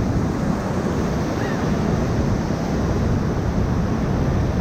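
Steady rush of whitewater in the Ocoee River's rapids at high water.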